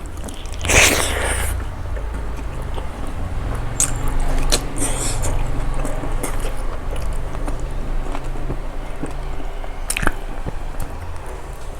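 Close-miked mouth sounds of someone chewing and biting a meal of pork fry and rice. There is a louder noisy burst about a second in and a few sharp clicks scattered through.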